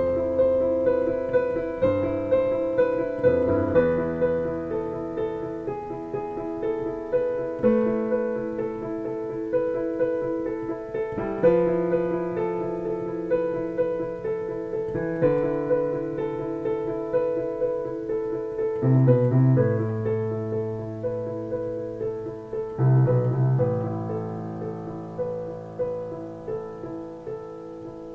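Solo piano playing a slow, quiet piece, the notes struck one by one and left ringing into each other under the sustain pedal. The level gradually dies away toward the end.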